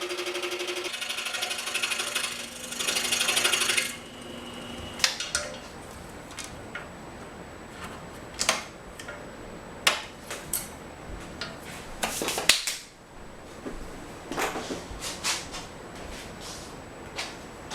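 Scroll saw running as its reciprocating blade cuts through a wooden block, louder just before it stops abruptly about four seconds in. It is followed by a series of sharp clicks and knocks from small wooden pieces being handled.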